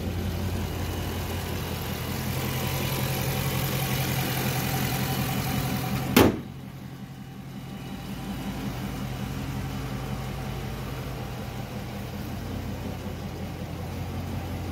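A Chrysler 300C's 392 (6.4-litre) HEMI V8 idling steadily. There is a single sharp knock about six seconds in, after which the engine sounds quieter.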